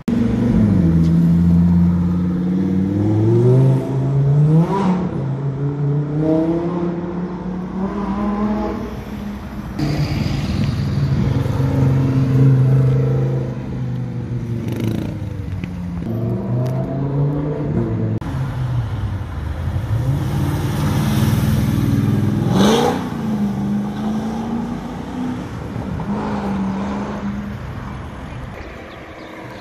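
Supercar engines accelerating hard through the gears, the engine note climbing and dropping back at each upshift, over several passes in a row. About two thirds of the way in, one engine revs sharply up, then settles to a steady drone before fading.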